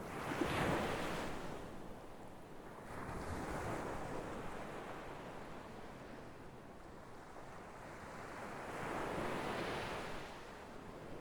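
Sea waves breaking and washing on the shore in three surges: the loudest just under a second in, a softer one around three to four seconds, and another near the end.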